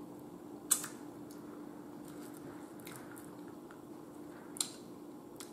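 Close-miked mouth sounds of a person chewing food, with a sharp smack about a second in and a smaller one near the end, over a faint steady hum.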